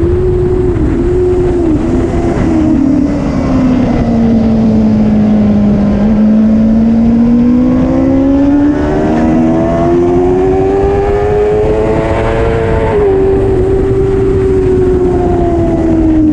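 Racing superbike engine heard on board over a constant rush of wind noise. The note dips and recovers a few times in the first two seconds, falls to a low point about six seconds in, then climbs steadily under acceleration until a sharp drop from a gear change near thirteen seconds.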